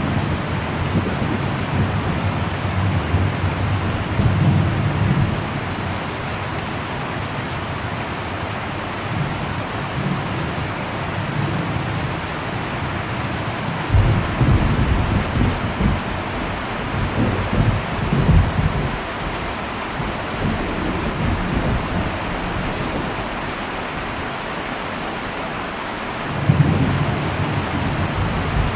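Heavy rain drumming steadily on an old metal roof, with thunder rumbling several times: a sudden rumble about halfway through that rolls on for a few seconds, and another near the end.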